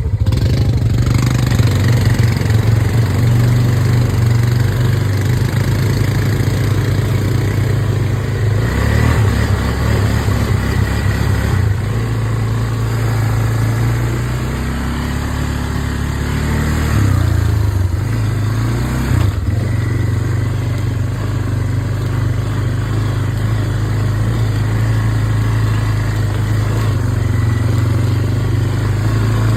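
Small off-road vehicle engine running while riding along, its pitch dropping and rising several times as the throttle changes.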